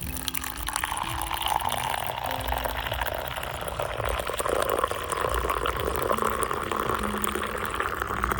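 Liquid being poured in a steady stream into a container, over soft background music.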